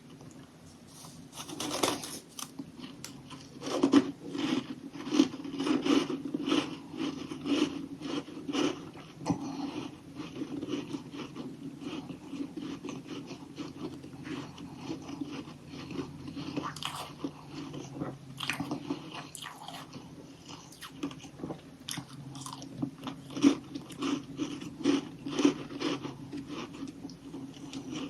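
Close-up crunching and chewing of frozen humidifier frost chunks: a few loud bites, each followed by long runs of rapid crunching as the ice is chewed.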